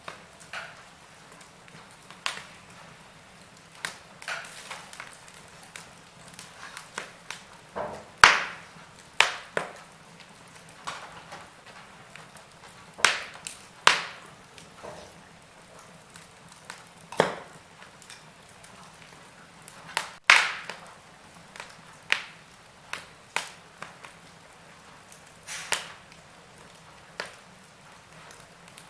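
Wood fire crackling: irregular sharp pops and snaps from burning logs over a faint steady hiss, with the loudest pops about 8, 13 to 14 and 20 seconds in.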